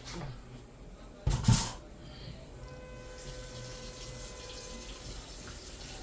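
Water from a kitchen tap, a short loud gush about a second and a half in, then a faint steady tone held in the background.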